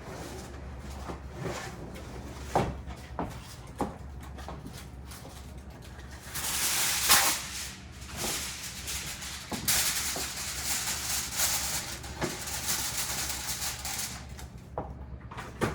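Aluminium foil being handled: pulled from the roll, torn and crinkled as it is pressed over a roasting pan, heard as two spells of crackling rustle, the first about six seconds in, the second about ten seconds in. A few light clicks and knocks come before it.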